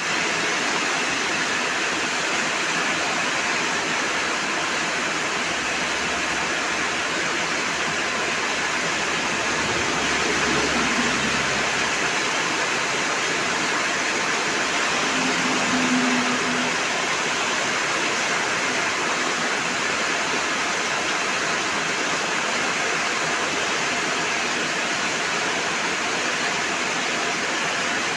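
Heavy rain falling in a steady downpour: a dense, even wash of noise.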